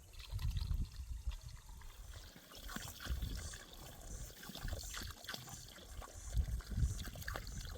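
Water trickling and pouring, with scattered small splashes and low rumbles that come and go.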